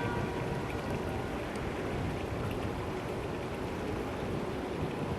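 Steady noise of a motorboat underway: a low engine drone under a constant hiss.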